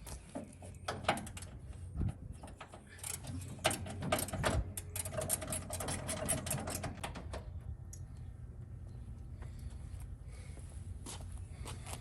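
Hand ratchet wrench clicking in quick runs while radiator mounting bolts and transmission cooler line fittings are loosened, with a steady low hum underneath.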